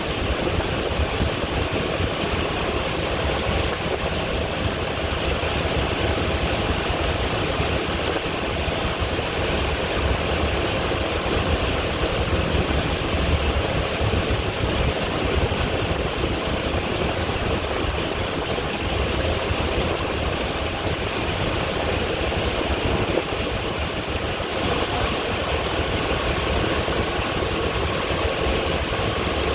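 Tour boat's motor running steadily while the boat is underway, with wind buffeting the microphone and water noise beneath.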